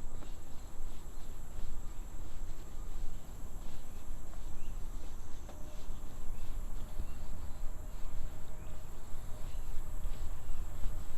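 Steady high-pitched drone of insects, over a low rumble. A faint held tone sounds for a few seconds in the middle.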